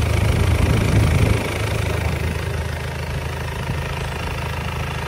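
Isuzu 4JB1 four-cylinder diesel engine running, a little louder for the first second and a half, then settling to a steady idle.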